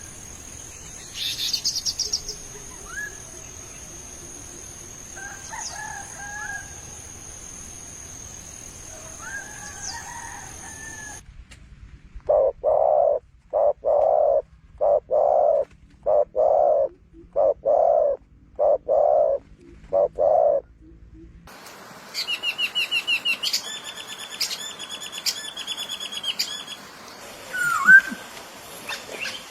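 A run of three different bird recordings, one after another. First come scattered high chirps over a steady background. Then about ten low calls, evenly spaced at about one a second. Last come rapid high trilling song and chirps.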